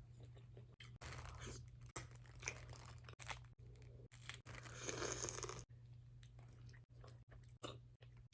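Close-up chewing and crunching of a person eating seafood boil, in a few bouts with the loudest about five seconds in, then quieter with a few small clicks. A steady low hum sits underneath.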